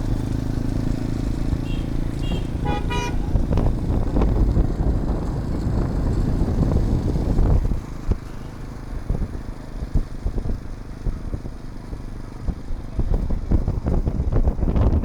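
Road traffic with motorcycle engines running, and a vehicle horn giving a few short toots about two to three seconds in.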